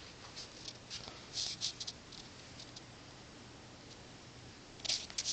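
Faint rustling and light scuffing, with small clusters of ticks about a second and a half in and again near the end, over a faint low hum.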